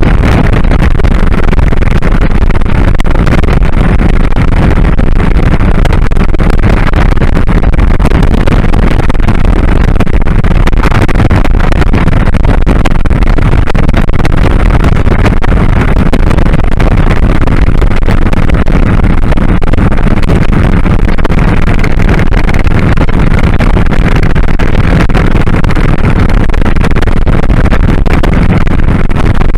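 Steady, loud wind rush on the riding camera glasses' microphone, with the 2001 Kawasaki Drifter 1500's engine running underneath at cruising speed.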